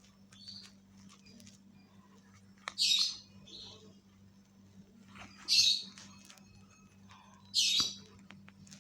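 A bird squawking three times, each a short harsh call about two and a half seconds apart, over a faint steady electrical hum.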